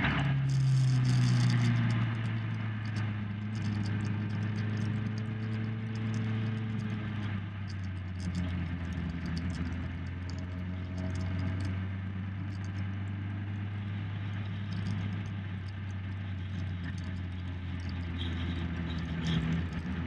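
Motorcycle engine heard from onboard, its revs dropping in the first couple of seconds, then running low and steady with wind noise; the revs pick up slightly near the end.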